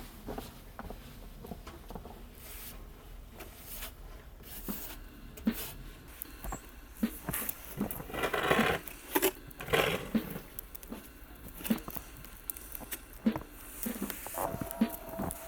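Irregular crunching footsteps in snow, with scattered clicks and short crunches; music starts near the end.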